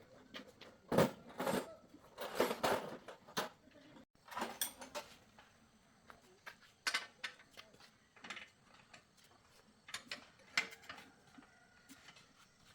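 Irregular metallic clinks, knocks and short scrapes of metal parts and hand tools being handled on a workbench, busiest in the first few seconds and sparser afterwards.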